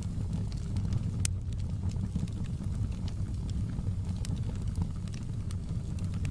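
Wood fire burning in a fireplace: a steady low rumble of the flames with scattered sharp crackles and pops from the burning wood, one louder pop about a second in.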